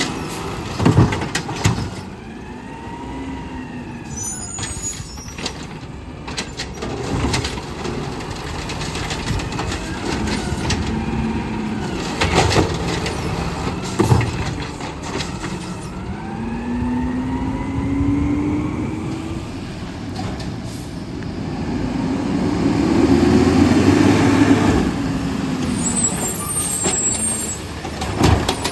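Automated side-loader garbage truck working a pickup: the engine runs while the arm and packer hydraulics whine in rising and falling glides, with several sharp knocks of a cart slammed against the hopper. The hydraulic whine swells louder about three quarters of the way through, and a short hiss of air follows near the end.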